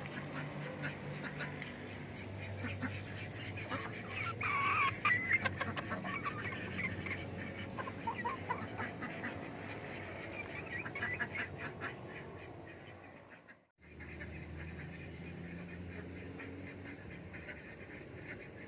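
Ducks quacking and chickens clucking while they feed, with many short clicks from beaks pecking at the food. The loudest calls come about five seconds in.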